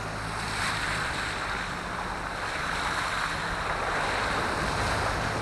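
Off-road vehicle driving along a concrete road: steady engine drone with a continuous rush of tyre and road noise.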